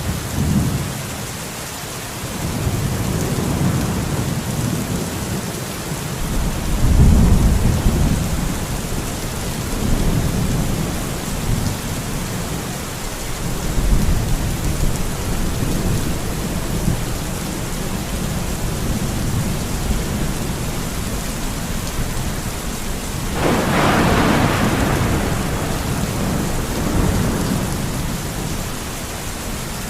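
Steady rain with rolling thunder: low rumbles through the first half, loudest about seven seconds in, and a sharper thunderclap about twenty-three seconds in that rolls away.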